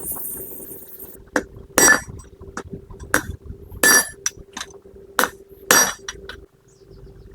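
Hammer blows on metal, irregularly spaced, about ten strikes. The hardest ones ring briefly with a metallic clang.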